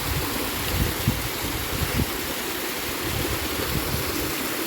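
Steady rush of water from a waterfall running at low dry-season flow, with a few soft low bumps about one and two seconds in.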